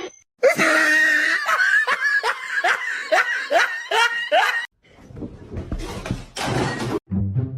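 A person laughing hard in a run of quick, repeated falling "ha" bursts, about two or three a second, which stops about five seconds in; a rushing noise follows.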